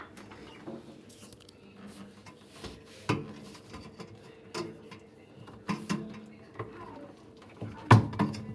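Irregular knocks and clicks at uneven spacing, as of hands handling parts, the loudest about eight seconds in.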